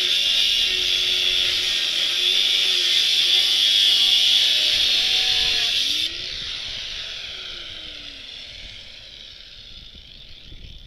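Power cutting tool cutting through the steel tube of a bicycle frame with a steady, high hiss. About six seconds in it comes off the metal and the sound drops sharply, then the tool winds down and fades over the next few seconds.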